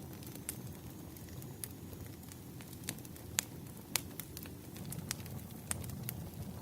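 Wood fire crackling: irregular sharp pops and snaps over a steady low rumble of burning logs, with the two loudest pops a little past the middle.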